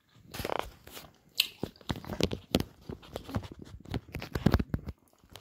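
Close-up chewing of a juicy, sour citrus segment with the mouth closed: irregular wet smacks and squelches that stop about a second before the end.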